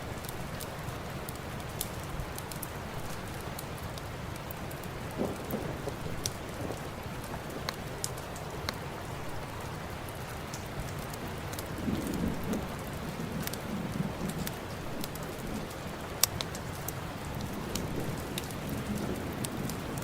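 Steady rain mixed with a crackling fire: a continuous hiss scattered with sharp pops and ticks, one pop standing out about three-quarters of the way through. A few low rumbling swells come and go.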